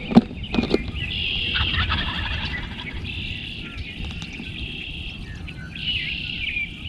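Wild turkeys gobbling in two long stretches, with a sharp knock just after the start.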